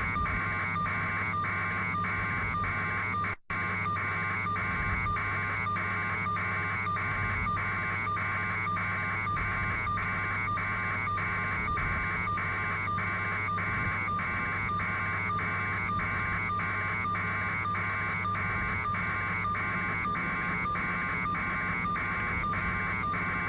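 An electronic beeping tone, about two beeps a second, repeats evenly over a steady low hum, with a brief dropout about three and a half seconds in.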